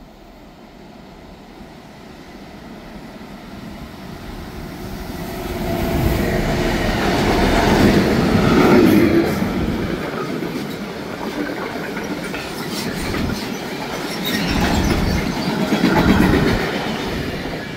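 Freight train passing close by: a rumble that builds to a peak about eight seconds in, then the wagons' wheels clattering rhythmically over the rail joints, with a second surge near the end.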